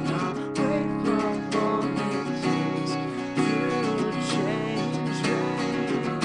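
Acoustic guitar strummed in steady chords, an instrumental stretch between sung lines of a solo cover of a rock song.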